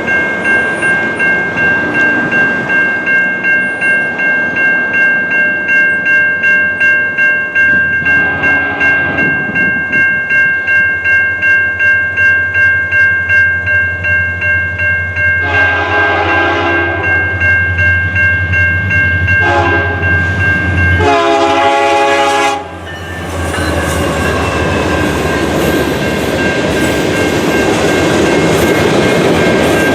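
Grade-crossing bell ringing steadily while an approaching freight locomotive sounds its horn in the crossing pattern: long, long, short, long. After the last blast the train passes close by in a loud, steady rumble of wheels on rail.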